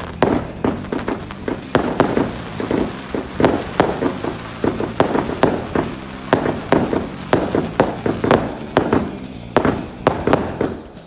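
Firework display going off: a rapid, irregular string of sharp bangs and reports, several a second, with music underneath.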